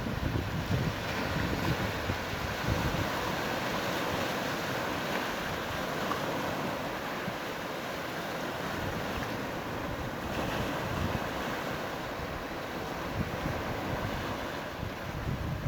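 Steady wash of sea surf on a sandy beach, with wind buffeting the phone's microphone in low gusts, strongest near the start.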